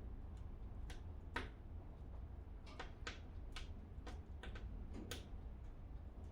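Wood fire crackling in a fireplace: about a dozen irregular sharp pops and snaps, the loudest about a second and a half in, over a steady low rumble.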